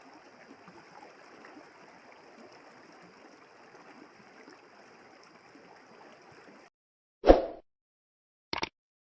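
Steady rushing of flowing river water that cuts off abruptly about seven seconds in, followed by a loud low thud and, a second later, a short sharp burst.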